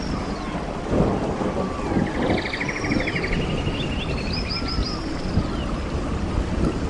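Small birds chirping and trilling in short repeated phrases every couple of seconds, over a constant low rumbling noise with a few louder rustles.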